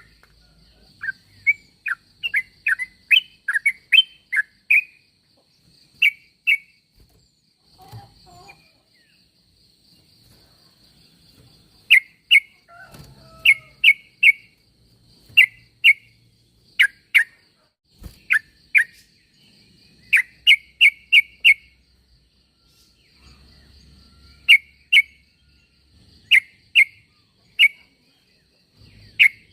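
Yellow-vented bulbul (trucukan) calling: short, bright chirping notes, each dropping in pitch, given in quick bursts of two to six with pauses of a second or more between bursts.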